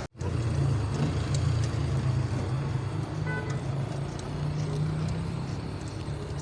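Car engine idling steadily, with a brief dropout right at the start.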